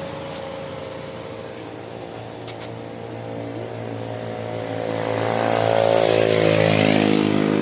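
Heavily loaded diesel truck engine labouring uphill, growing louder as it approaches and dropping in pitch near the end as it passes.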